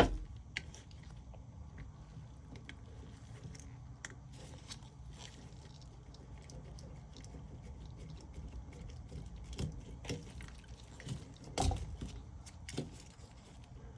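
Scattered small clicks, taps and rustles of hands handling compressor wiring and its detached start relay, with a louder knock about a second in from the start and another about eleven and a half seconds in, over a faint low hum.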